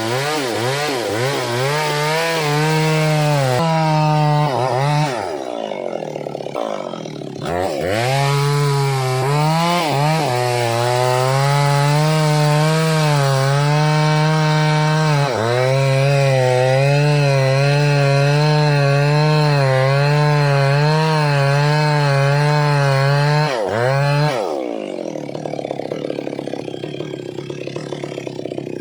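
Stihl MS 382 two-stroke chainsaw cutting wood at high revs, its engine note wavering as the chain takes load. The revs drop briefly several times, and the saw runs lower and less steadily near the end.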